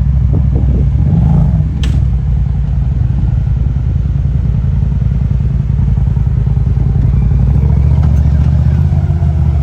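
Side-by-side UTV engine running steadily and loud, close to the microphone, with a single sharp click about two seconds in.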